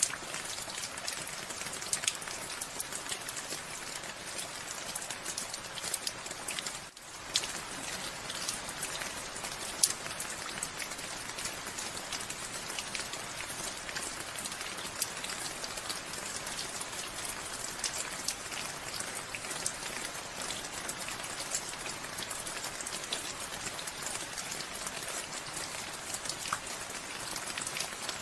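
Steady rain falling, with many sharp individual drop hits over an even hiss. The sound dips briefly about seven seconds in.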